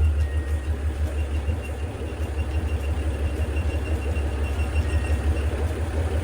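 Freshly overhauled Chris-Craft Model W marine engine, a marinized Hercules WXLD, running steadily at low speed with a deep, rapidly pulsing exhaust rumble.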